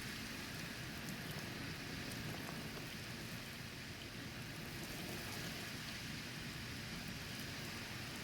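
Thunderstorm rain falling steadily, an even hiss of rain with no distinct thunderclap.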